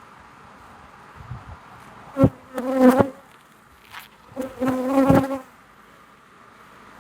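Honeybees buzzing close past the microphone, two loud passes about two seconds in and again about four and a half seconds in, with a few sharp knocks, over the steady hum of the open colony. The bees are agitated by the hive being disturbed.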